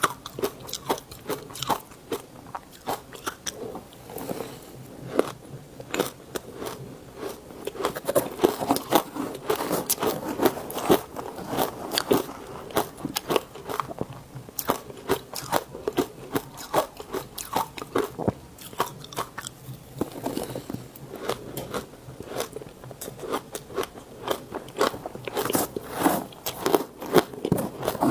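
Ice being bitten and chewed close to the microphone: a dense, irregular run of hard crunches and crackles, heavier in a few spells.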